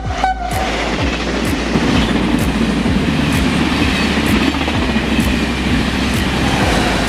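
Train passing through a station, its wheels clacking over rail joints about once a second over a steady rolling rumble.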